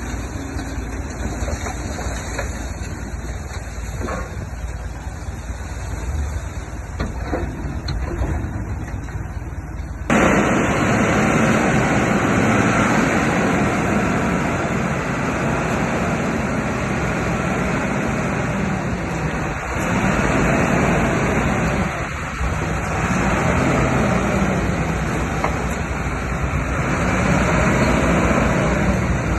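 Heavy earthmoving machinery's diesel engine running under load. About ten seconds in the sound jumps suddenly louder and fuller, and later the engine note rises and falls several times as the load changes.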